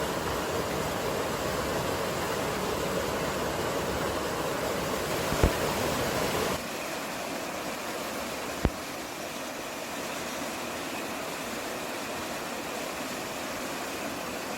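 Steady rushing of water from a mountain stream, with its fullest sound in the low middle range. About six and a half seconds in it cuts abruptly to a quieter, thinner steady rush. Two sharp clicks come about three seconds apart, one just before the cut and one after it.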